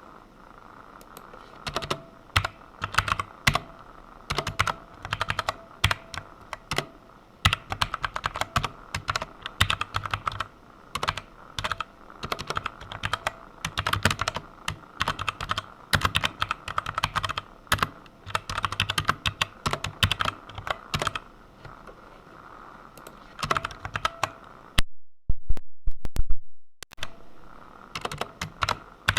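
Typing on a computer keyboard: quick runs of key clicks broken by short pauses, the longest pause about three-quarters of the way through.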